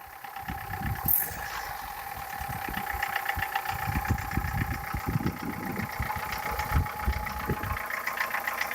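Warm Toyota 4S twin-cam four-cylinder engine idling with a rapid knocking from the cylinder head, caused by play in the camshafts in their worn bearing journals. A brief hiss sounds about a second in.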